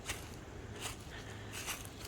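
Footsteps of a hiker walking on a trail: three short crunching steps, evenly spaced about every 0.8 seconds.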